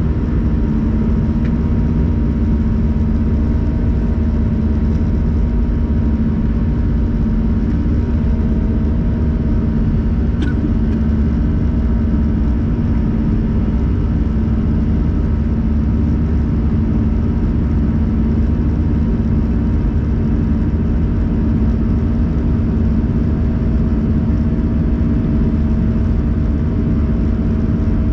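Airliner cabin noise in flight aboard an Airbus A321-111: the CFM56 turbofans droning steadily under a constant rush of air, with a low hum. A faint click sounds about ten seconds in.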